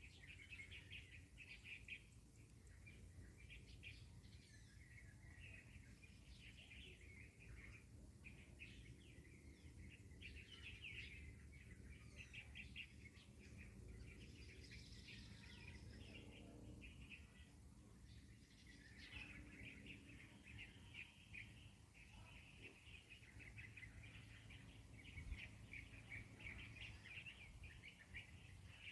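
Faint outdoor ambience of small birds chirping and twittering almost continuously, over a steady low background rumble.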